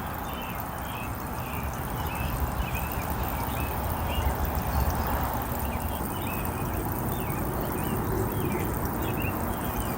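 American robins chirping: many short high calls, one or two a second, over a steady low background rumble.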